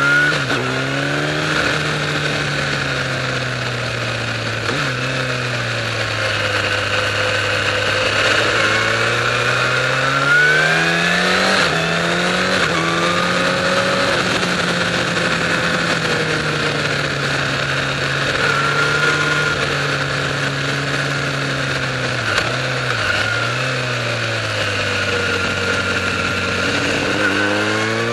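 Inline-four sport motorcycle engine under way on a winding road, its revs repeatedly falling as the throttle is rolled off into curves and rising again on acceleration, with a brief sharp dip about two-thirds through. Steady wind and tyre noise runs underneath.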